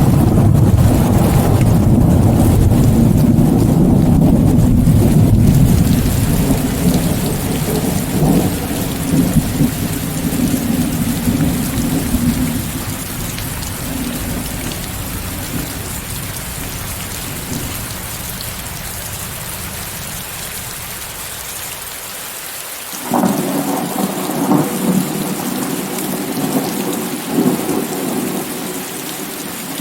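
Steady heavy rain with thunder. A long rolling rumble at the start dies away over about ten seconds, leaving the rain hiss, then a second peal of thunder breaks in sharply about 23 seconds in and rumbles for several seconds.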